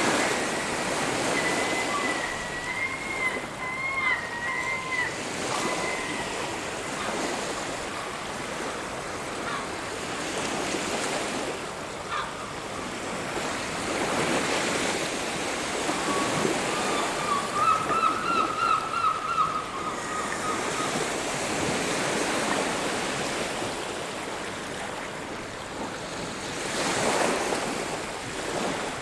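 Sea waves washing onto a beach, the surf swelling and easing in repeated surges. Faint, wavering high-pitched calls sound over it twice: during the first few seconds and again around the middle.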